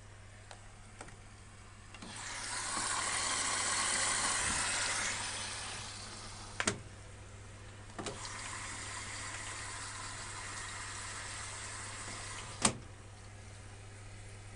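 Electrolux EWS 1045 washing machine taking in water: two rushes of water, the first louder, each ending with a sharp click, about halfway and near the end, over a steady low hum.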